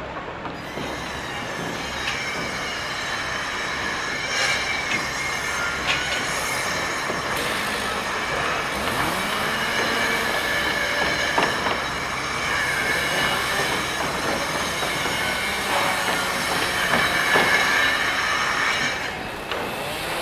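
Steady heavy mechanical rumble with sustained high-pitched metallic squealing over it, with a few clanks.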